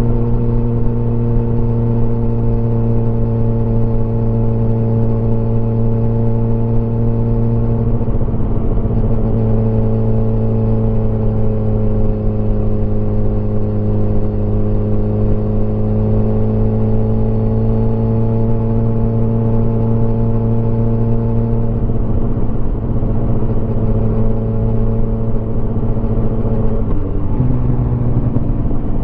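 Motorcycle engine running at a steady cruising speed. Its pitch sags a little and comes back up in the middle, and changes briefly near the end.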